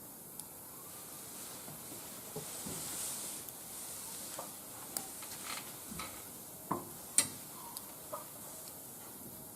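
Wood fire burning in a barbecue grill: a steady hiss with scattered crackles and pops, the sharpest pop a little after seven seconds in.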